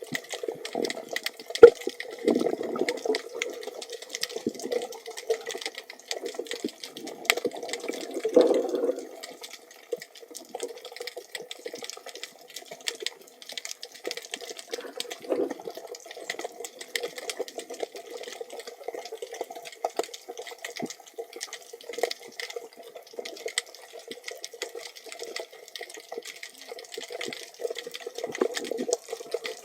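Water sloshing and gurgling around an underwater camera housing, muffled, with scattered small clicks and a sharp knock about one and a half seconds in.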